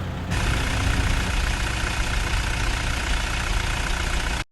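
Toyota Innova diesel engine idling steadily after starting. About a third of a second in it suddenly becomes louder and brighter, and it stops abruptly near the end.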